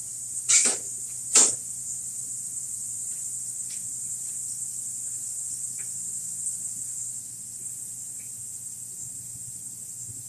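Steady high-pitched chorus of insects, with two short, loud bursts of noise about half a second and a second and a half in.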